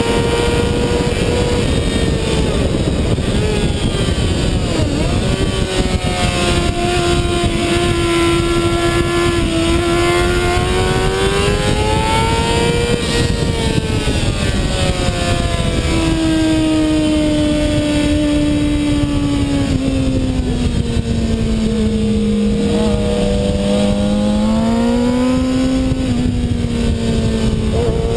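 2007 Kawasaki ZX-6R's inline-four engine at racing revs on track, heard onboard over heavy wind rush. The engine note climbs and falls through the gears and corners, dropping sharply a few times as the rider shifts and brakes.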